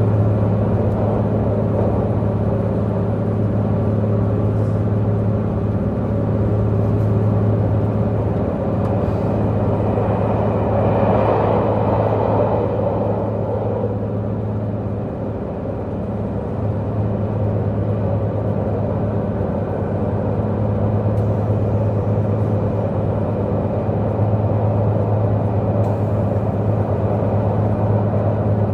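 Diesel multiple-unit express train's diesel engine running steadily under way, a deep even hum over the rumble of the train on the rails, heard from inside the passenger car. A stronger rushing noise swells for a couple of seconds about ten seconds in.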